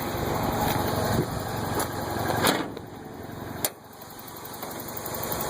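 Toyota 22RE four-cylinder engine idling steadily, with two sharp knocks about two and a half and three and a half seconds in.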